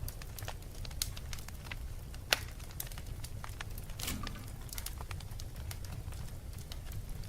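Wood fire crackling: irregular small pops and snaps over a steady low rumble, with one sharper pop about two seconds in and a brief flurry of crackles a little past halfway.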